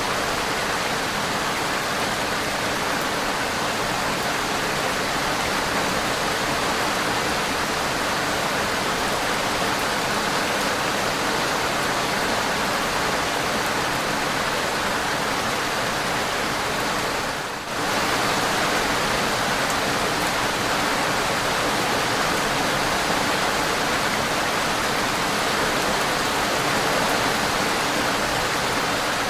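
Heavy rain pouring down steadily, a dense, even hiss of downpour. It dips briefly about halfway through, then carries on as before.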